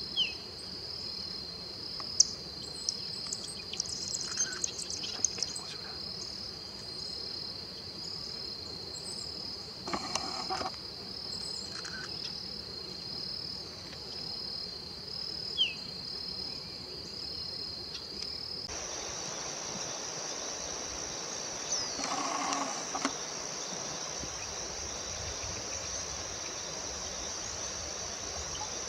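Forest ambience dominated by a steady, high-pitched insect drone that jumps to a higher, hissier pitch about two-thirds of the way in. A few short bird calls sound over it.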